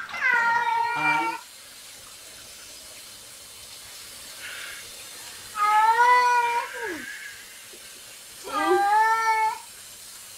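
Domestic cat giving three long, loud meows a few seconds apart, the second ending in a falling slide.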